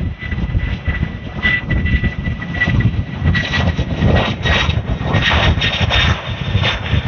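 Boeing 747 cargo jet's engines at takeoff power: a heavy, uneven rumble with gusts of hiss and a thin steady whine above it.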